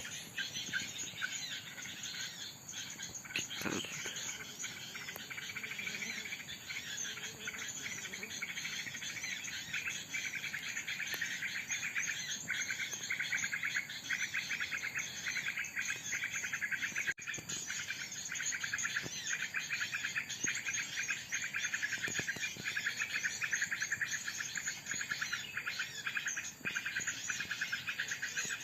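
Fast, continuous high chirping and trilling of small birds, mixed with insects. It grows a little louder about ten seconds in.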